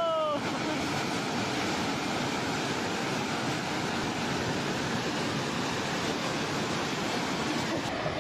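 Steady rushing roar of a fast-moving flash flood, water and sediment pouring through a canyon.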